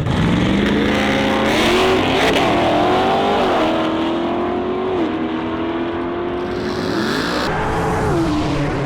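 V8 drag car accelerating hard down the strip. Its engine pitch rises, drops at each gear change and climbs again, several times in the first few seconds, with another climb and drop near the end.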